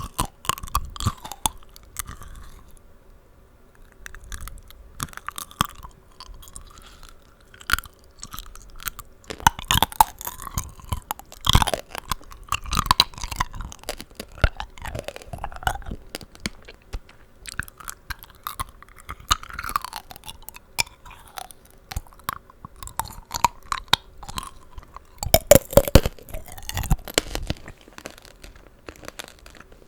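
Close-miked chewing of tanghulu: the hard sugar-candy shell on the fruit cracking and crunching between the teeth in dense, irregular crisp clicks, with louder bursts about a third of the way in and again near the end.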